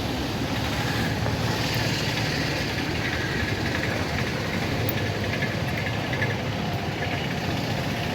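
Steady road traffic: vehicle engines running on the road below.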